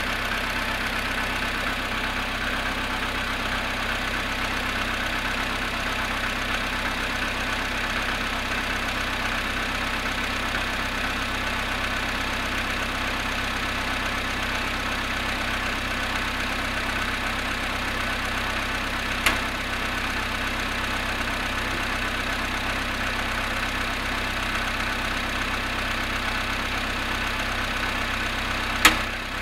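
Volkswagen Polo Sedan engine idling steadily with a knock, running cold after standing at −1 °C. Two short sharp clicks, one about two-thirds of the way through and a louder one near the end.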